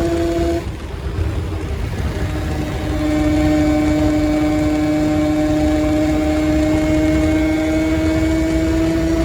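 A motor running at a steady speed: a constant hum with a higher whine over a low rumble. It breaks off just under a second in and comes back about two and a half seconds in.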